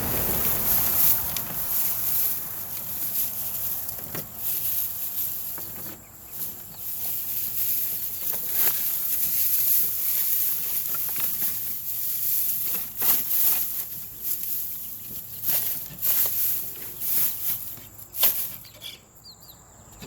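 Dry straw rustling and crackling as it is handled and spread over the floor of a chicken pen, with irregular crisp crunches throughout.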